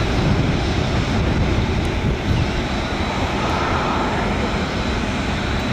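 Airbus A380's jet engines running steadily during taxi: a continuous low noise with a faint steady high whine.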